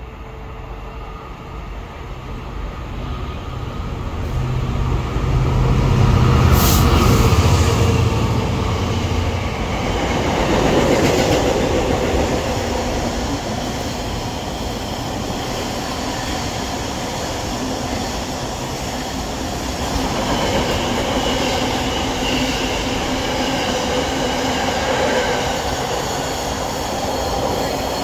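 Container freight train passing close by at speed. Its sound builds to a peak with a low rumble about six to eight seconds in as the head of the train goes by, then settles into a steady rush of wagons and wheels on the rails.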